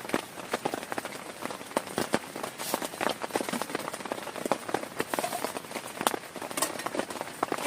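Heavy rain falling on a plastic tarp: a steady hiss dotted with many sharp, irregular drop hits.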